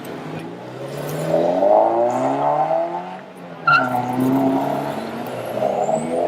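A car engine revving hard as the car accelerates away, its pitch climbing for a couple of seconds. About halfway through, the engine briefly drops off, then a sudden loud crack comes in and the engine runs on.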